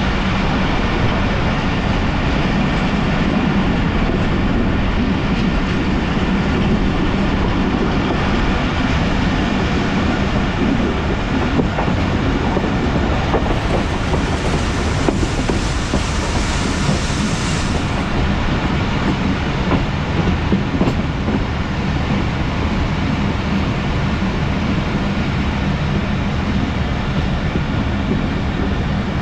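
Passenger train running along the track, heard from beside the coach: a steady rolling rumble and clatter of the coach wheels over the rails. A higher hiss rises for a few seconds about halfway through.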